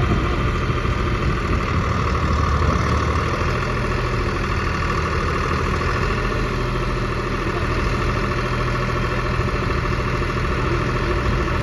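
Deutz-Fahr tractor's diesel engine running steadily at an even speed.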